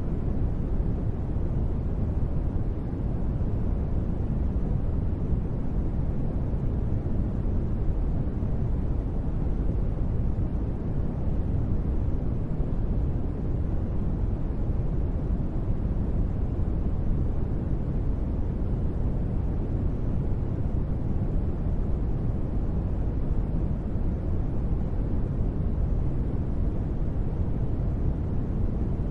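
Steady synthetic space-ambience noise: an even, deep rumble weighted to the low end, with little hiss up top and no change in level or character.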